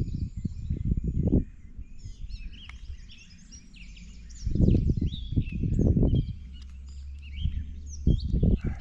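Many songbirds chirping and calling, with several loud bursts of low rumbling at the start, around the middle and near the end.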